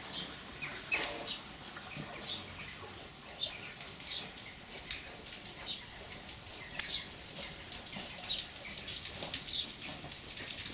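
Small birds chirping, short falling calls repeated over and over, mixed with many short rustles and clicks.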